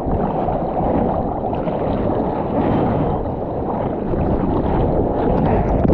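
Waves breaking along a beach in a steady rush, with wind buffeting the microphone.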